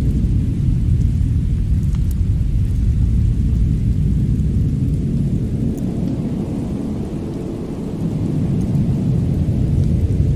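Fireplace and winter storm ambience: a deep, steady rumble with a few faint crackles on top, easing slightly about seven seconds in.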